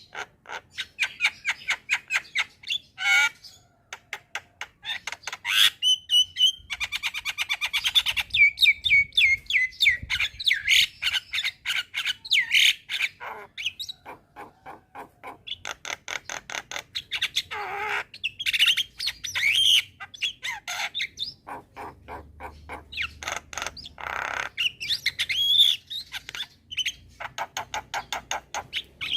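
Javan myna (jalak kebo) singing a long, busy song: fast runs of clicks and rattles mixed with whistled notes and harsh squawks, with only brief pauses.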